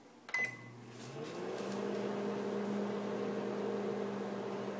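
Microwave oven started: a short keypad beep, then the oven begins running, its hum rising in pitch over about a second and settling into a steady drone.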